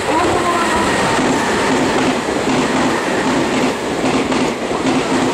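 Meitetsu 2200 series electric limited-express train passing through a station at speed: a loud, steady rush of the cars with a regular clickety-clack of the wheels over the rail joints.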